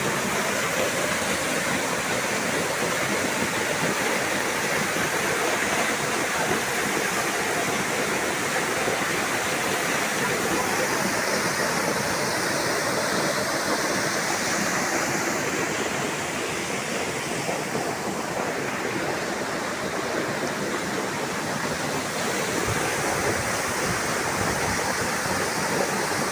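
Rushing water of a rocky river and waterfall: a steady, dense roar of falling and tumbling water.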